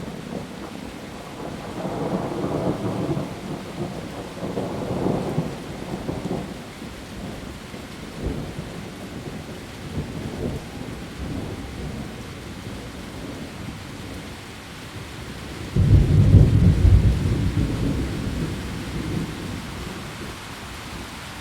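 Heavy rain falling steadily on leaves, with thunder rumbling in the background. About three quarters of the way through, a loud clap of thunder breaks in suddenly and rolls away over several seconds.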